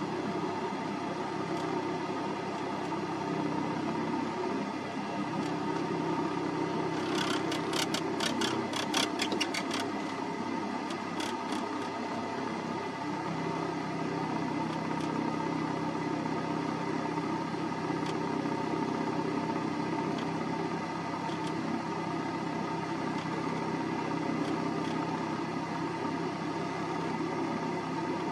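A car engine running steadily, with a quick run of sharp clicks from about seven to ten seconds in and a few more about a second later.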